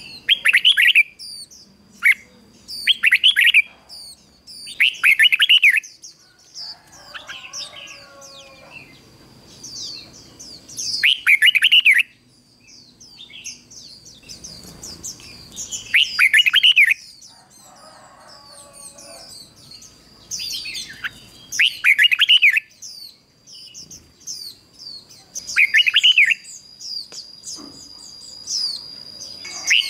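Red-whiskered bulbul singing: a decoy bird's song used to draw in wild bulbuls, in short loud phrases repeated every few seconds. A steady high thin tone runs underneath.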